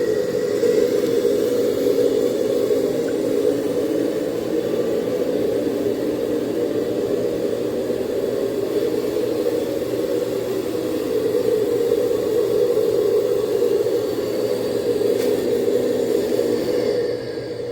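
Electric motor and gearbox of a small 4x4 RC dump truck whirring steadily as it drives. The whir eases off near the end.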